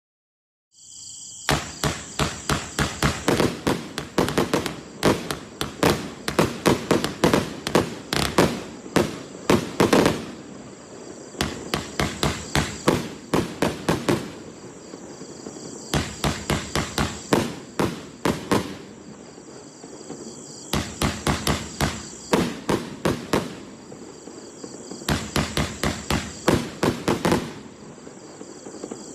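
Firecrackers going off in rapid strings of sharp bangs, several a second. They come in five volleys, the first about eight seconds long, with short pauses between them.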